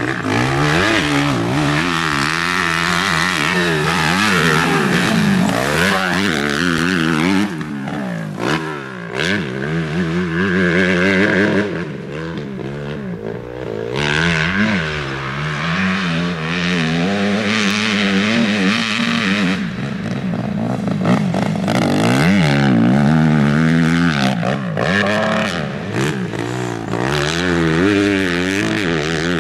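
Motocross bike engine revving up and down over and over as the throttle is worked, with short drops where it eases off about eight and thirteen seconds in.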